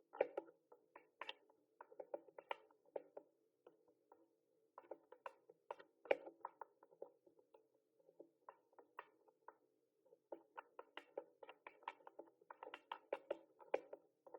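Typing on a mechanical keyboard: irregular runs of key clicks. There are short pauses about four seconds in and just before ten seconds, and the clicks come quicker near the end.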